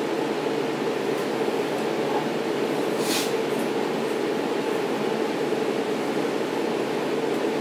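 Steady rumble and hum of a moving train heard from inside a C3 bilevel passenger coach. There is a short hiss about three seconds in.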